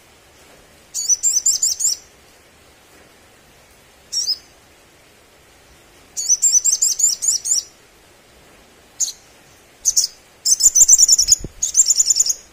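Sunbird (sogon) singing: three bursts, each about a second long, of rapid, high-pitched chattering trills, with single sharp chips between them.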